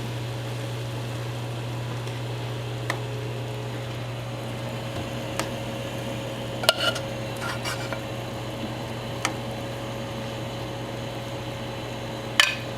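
A utensil clinking against a cooking pot a handful of times, the last near the end the loudest, as the thickening rice soup is stirred, over a steady low hum.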